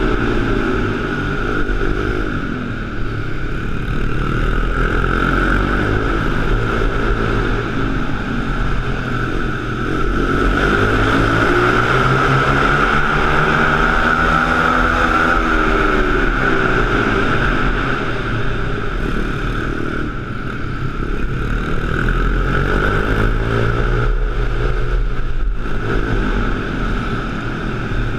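Pit bike engine running, its pitch rising and falling again and again as the throttle is worked, with a steady high whine throughout.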